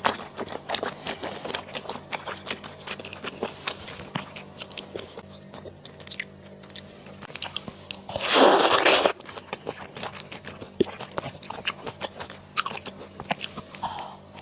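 Close-miked chewing and crunching of mala xiang guo, a spicy Sichuan stir-fry, with many small crisp bites and mouth clicks. A louder noisy burst of about a second comes roughly eight seconds in.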